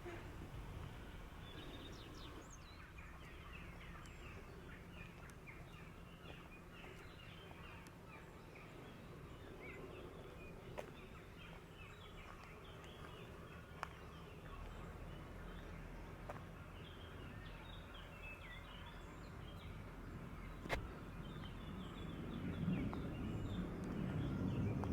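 Quiet outdoor ambience with many small birds chirping throughout. A few isolated sharp clicks come through, and a low rumble grows louder near the end.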